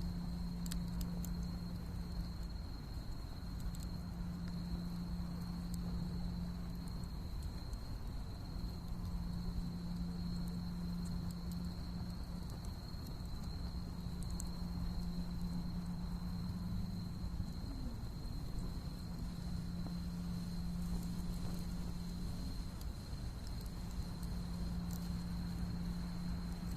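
An autumn insect trilling on one steady high note, with scattered faint crackles and a low hum that comes and goes every few seconds.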